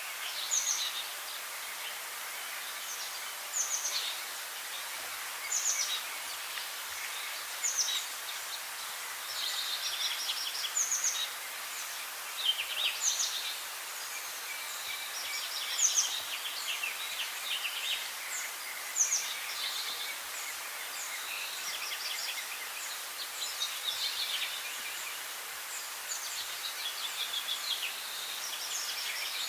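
Songbirds singing: short, high, downward-sweeping notes every second or two, mixed with fast trills, over a steady background hiss.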